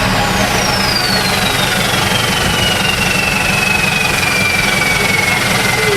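Euro 4 diesel truck engine idling steadily through an FRM racing muffler, with a high whistle falling steadily in pitch throughout.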